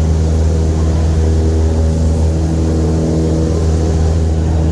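Small airplane's piston engine and propeller droning steadily with a deep, even hum.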